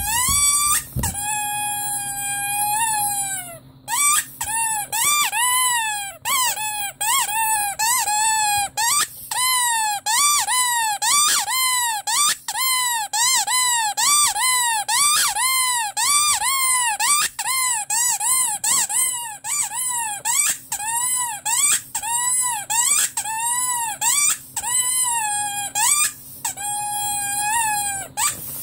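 Rubber squeaky toy squeezed over and over, giving high squeaks with many overtones. A long held squeak at the start, then a quick run of short squeaks, about two a second, each bending up and down in pitch, and a longer squeak near the end.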